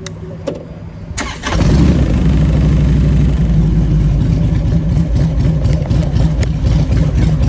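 Motorcycle engine started: it catches about a second and a half in and then runs at a steady idle.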